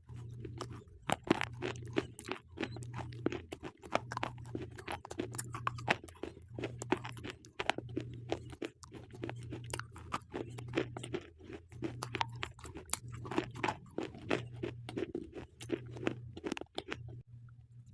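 Slate pencils being bitten and chewed close to the microphone: a dense run of sharp, crackly crunches with only brief pauses.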